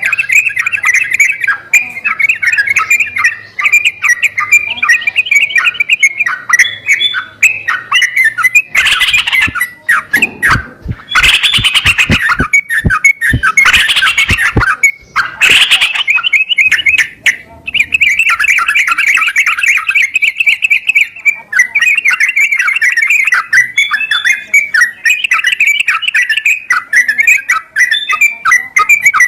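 Sooty-headed bulbul (trucukan) singing a fast, continuous bubbly chatter, played as a lure song to prompt a silent bulbul to sing. About ten to fifteen seconds in, a run of sharp knocks comes with louder, harsher calls.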